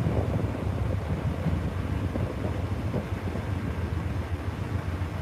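Steady low rumble of a standing Amtrak passenger train idling at the platform, with some wind on the microphone.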